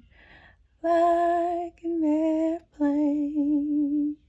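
A woman's voice singing three long held notes without words, unaccompanied, after a short breath; the third note is the longest and wavers with vibrato before it stops.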